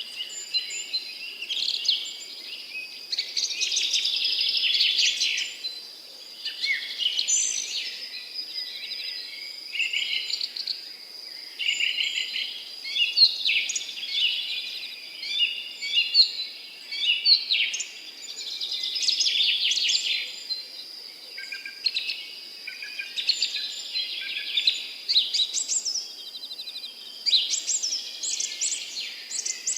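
Several songbirds singing at once in a dawn chorus, overlapping chirps and trills that swell and fade every few seconds. A thin, steady high-pitched tone runs underneath.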